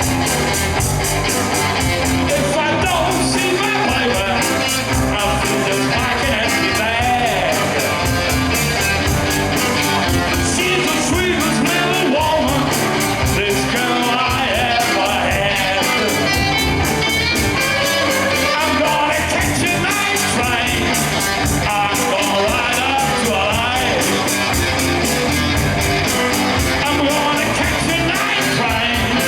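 A blues band playing live: drums keep a steady beat under guitar and a wavering lead line, with no words picked out.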